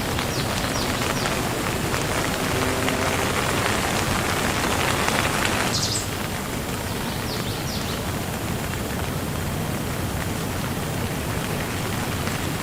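Steady rain falling, an even hiss of drops. About six seconds in it changes suddenly to a slightly softer, duller rain.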